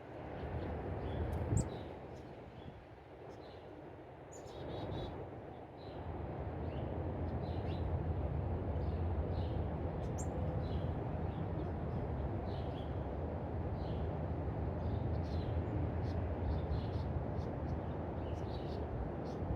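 Small birds chirping, short high chirps scattered throughout. A steady low rumble grows louder about six seconds in and stays the loudest sound, with a single brief knock shortly after the start.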